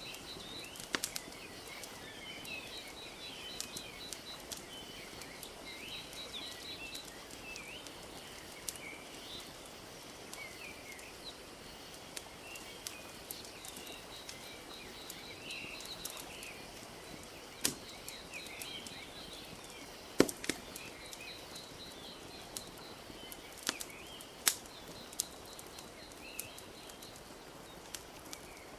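Wood fire crackling with sharp scattered pops, the loudest a few near the middle, over a steady wash of gently lapping lake water. Small birds chirp throughout, with a high trill repeating on and off.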